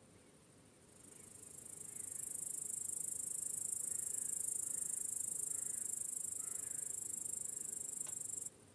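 Crickets chirring in a dense, high, steady trill that swells in over the first two seconds and cuts off suddenly near the end.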